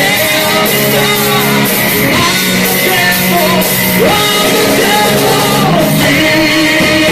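Live heavy metal band playing loud, distorted guitars and drums with shouted or sung vocals, recorded close to the stage in a bar.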